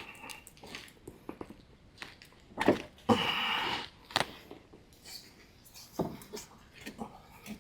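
Scattered clicks and knocks of metal parts and hand tools during work on an ATV rear axle, with a sharper knock a little under three seconds in followed by nearly a second of scraping.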